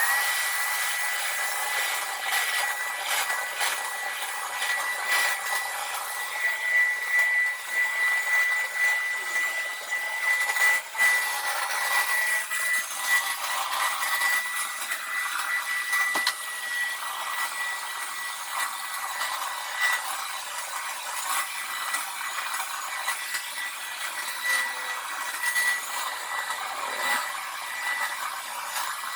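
Hoover Power Scrub Deluxe carpet washer running on its wash cycle: a steady motor whine with a constant high tone over a rushing noise.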